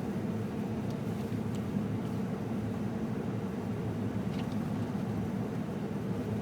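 Steady low drone of a 2006 Ford F-150 pickup heard from inside the cab while driving, engine and tyre noise on a snowy road, with a few faint ticks.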